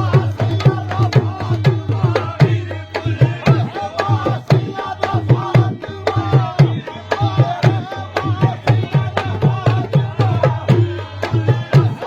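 Qawwali music: hand drums beating a quick, steady rhythm under a sustained low tone and a wavering melody, with no words sung.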